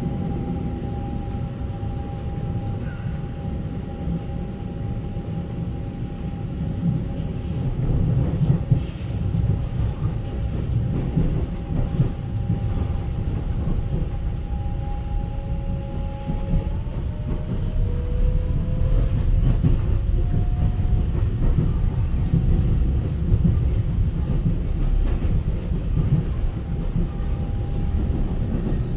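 Taiwan Railway EMU900 electric multiple unit running, heard from inside the car: a steady low rumble of wheels on the track under a two-tone traction motor whine. The whine's tones shift and glide in pitch about halfway through as the train changes speed, and a few light clicks come from the track.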